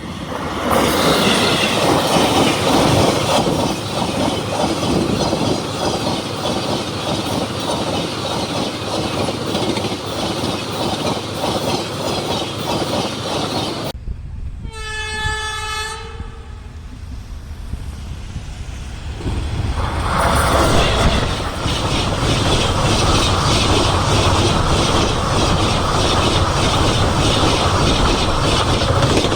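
An express train hauled by a WAP4 electric locomotive runs past at speed, with loud rushing and rapid wheel clatter. About halfway through a single train horn sounds for a couple of seconds. The rushing noise then builds again and stays loud.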